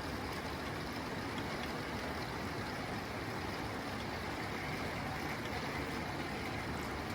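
Steady rain falling on a tin roof, an even hiss and patter that does not let up.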